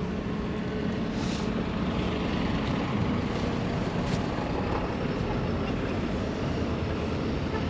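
Steady wind and road rumble while riding an e-bike through city traffic, with a faint engine-like hum and a couple of brief hissing swishes about a second and four seconds in.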